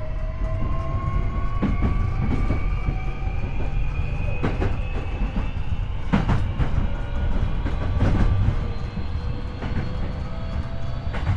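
Interior running sound of a Hankyu 8300 series electric train: the Toyo IGBT-VVVF inverter and traction motors whine in a few steady tones that rise slowly in pitch as the train gains speed. Under the whine is wheel and bogie rumble, with several sharp clacks of the wheels over rail joints.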